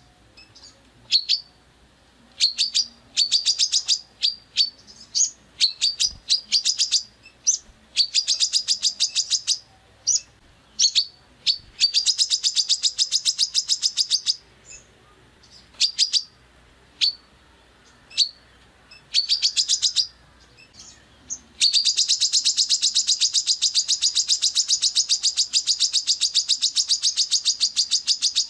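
Songbird calling in short bursts of rapid, sharp, high chips, then a long unbroken fast rattle of chips from about three-quarters of the way in. These are the harsh 'tembakan' phrases of a masteran recording, used to teach caged songbirds.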